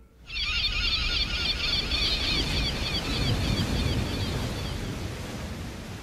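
A flock of birds calling in quick, overlapping chirps over a low, steady rushing noise; the calls stop about five seconds in while the rushing fades on.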